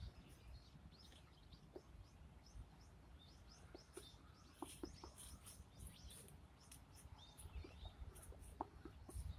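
Faint chirping of small wild birds: many short, high calls scattered throughout, over a low rumble.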